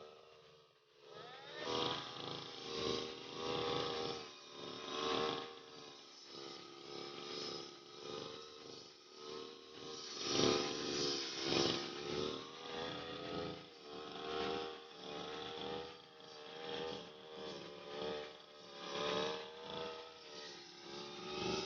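Brush cutter's small petrol engine revving up about a second in, then running at high speed while cutting grass, its pitch and loudness rising and falling about once a second.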